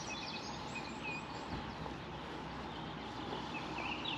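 Quiet outdoor lakeside background noise with small birds chirping faintly now and then.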